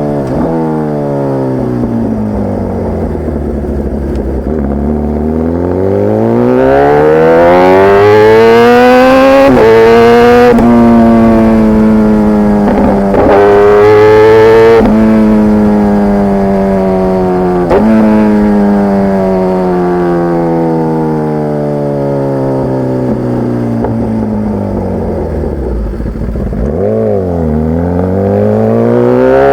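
Kawasaki ZX-10R inline-four running through an SC-Project CRT carbon exhaust while ridden. The revs fall off at first, then climb hard with several quick gear changes that break the note. They ease down for a while, with a short blip near the end before pulling up again.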